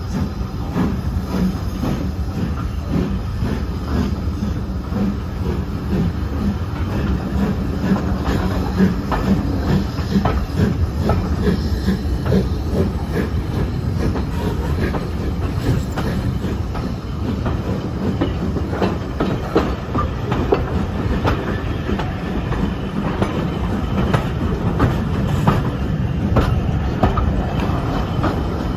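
Steam-hauled passenger train pulling out and running, heard from a carriage window: a steady loud rumble of the carriages with the wheels clicking irregularly over the rail joints.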